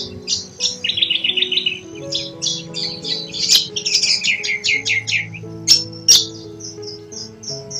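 Several small birds chirping and twittering in quick runs of high notes, including a fast trill about a second in, over soft background music with long held notes. A couple of sharp clicks stand out loudest a little after the middle.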